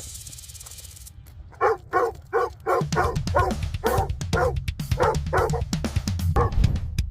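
Background music with a drum beat, over which a rapid run of short yapping animal calls comes about two or three a second, starting a little over a second in and stopping shortly before the end.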